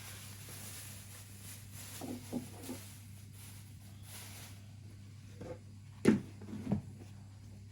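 A few short knocks and clunks of objects being handled, the loudest about six seconds in, over a steady low hum.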